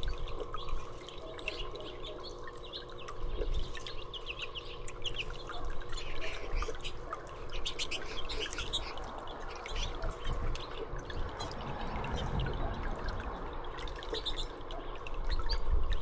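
Small songbirds chirping and calling in quick, repeated short notes, over the dripping and trickling water of a birdbath, with a faint steady hum underneath.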